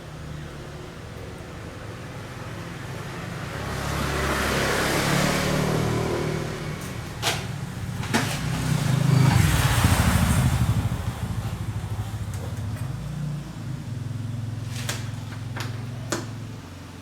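Motor vehicle engines passing by, the noise swelling twice and loudest about nine to ten seconds in, over a steady low engine hum, with a few sharp clicks.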